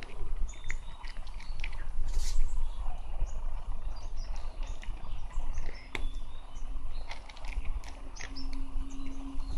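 Small birds chirping in short, scattered calls over a low, steady rumble; a faint steady hum comes in about six seconds in.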